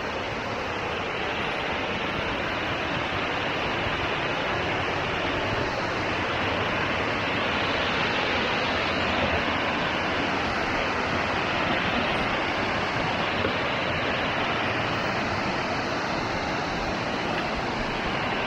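Waterfall rushing steadily, growing slightly louder over the first several seconds.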